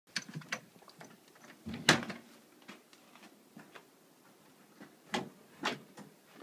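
A few scattered knocks and thuds with quiet between them; the loudest comes about two seconds in, and two more follow a little after five seconds.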